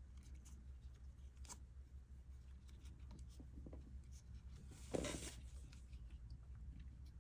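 Faint scratchy rubbing and small clicks of a crochet hook and yarn being worked into stitches, with one brief louder rush about five seconds in. A low steady hum runs underneath.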